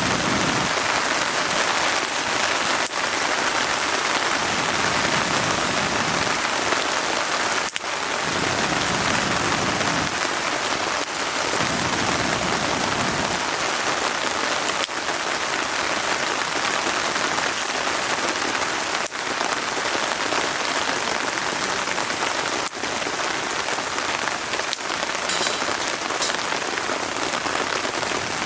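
Steady rain falling, with a wood fire in a fire pit giving sharp crackling pops every second or two.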